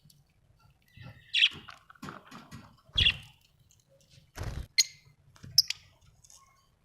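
Budgerigars giving short, scattered chirps, a few of them sharp and high, with a couple of dull low thuds midway.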